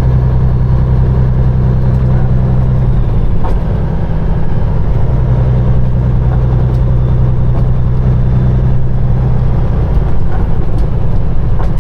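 Peterbilt 389 semi truck's diesel engine pulling hard and steadily under load up a snowy hill while the drive tires spin for grip. The low engine drone falters briefly about three to four seconds in, then steadies again.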